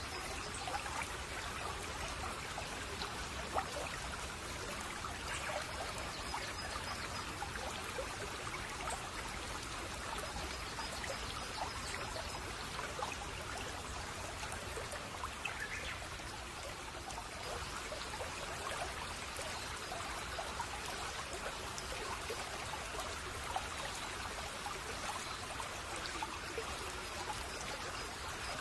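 Babbling brook: shallow water trickling and gurgling steadily, with many small splashes.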